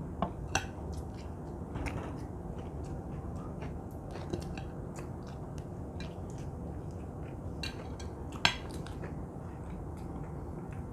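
Knives and forks clinking and scraping on plates while beef steak is cut and chewed, with a few sharp clinks scattered through. The loudest clink comes about eight and a half seconds in, over a steady low hum.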